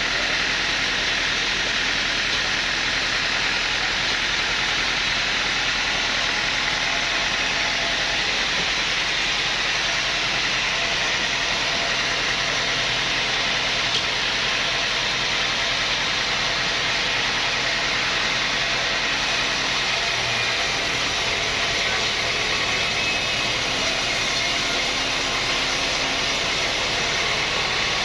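Sawmill machinery running steadily: a constant, unbroken machine noise with no starts or stops.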